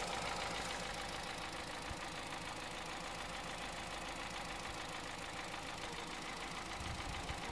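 2009 Honda Civic Hybrid's 1.3-litre four-cylinder engine running steadily with a knocking noise, which the owner suspects could be the timing chain, piston slap or bearings.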